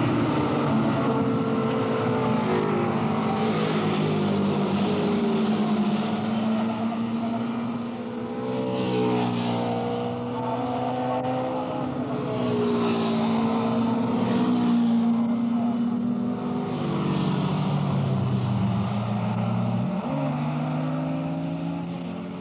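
Several racing superbike engines running hard on the track, their pitches overlapping and rising and falling as the bikes accelerate, shift and pass.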